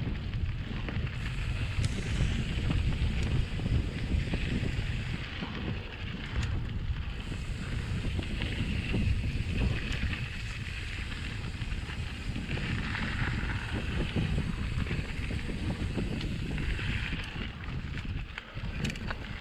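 Wind buffeting an action camera's microphone on a moving mountain bike, over the rumble of tyres and a steady stream of small knocks and rattles from the bike on a rough trail.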